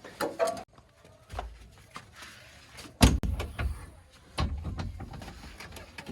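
A few knocks and thumps, the loudest about three seconds in.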